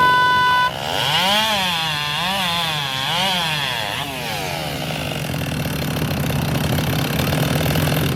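A short electronic start beep, then a racing chainsaw at full throttle cutting through a log. Its pitch sags and recovers about three times under load, then it runs on steadily.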